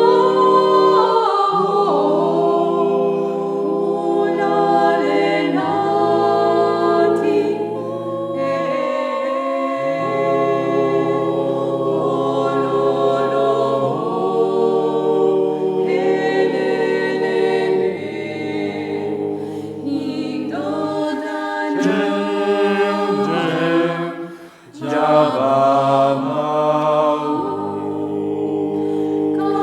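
Vocal ensemble singing a cappella: several voices holding sustained chords in harmony that change every second or two, with a brief breath-pause about three-quarters of the way through.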